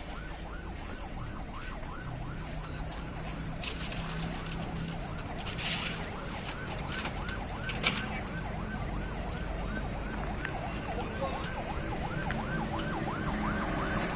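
A siren in fast yelp mode, its pitch sweeping up and down about three times a second, over the steady low hum of a running diesel engine. A short hiss a little before the middle and a sharp click just after it stand out briefly.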